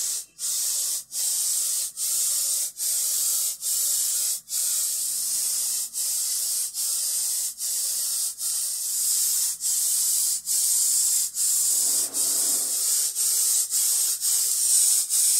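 Aerosol can of Minwax water-based Polycrylic spraying a clear finish coat: a loud, high hiss in repeated short bursts, about three every two seconds, each broken by a brief pause.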